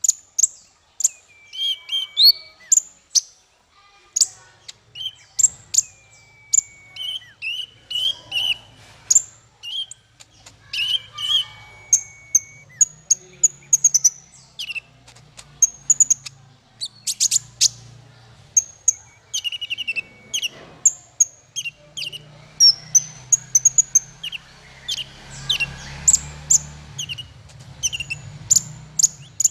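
A small songbird singing a fast, varied string of high chirps and sharp notes, broken several times by a short held whistle.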